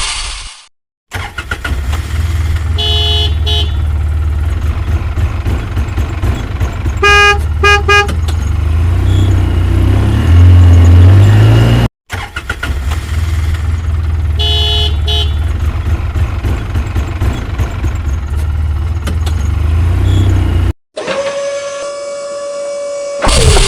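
Truck engine sound effect running with short horn honks: a couple of honks a few seconds in and a quick series of toots a little later. The engine revs up, cuts off abruptly, and the same engine-and-horn sequence then plays again.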